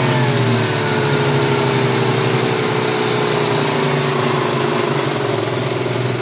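Ford Mustang 5.0 V8 running with its accessory drive, the revs settling slowly down to idle after a blip, with a whining tone that falls with them. The owner suspects the whine comes from the smog pump.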